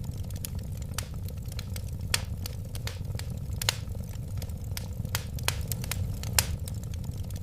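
Wood fire burning, with a steady low rumble of the flames and irregular sharp crackles and pops, a few louder ones standing out.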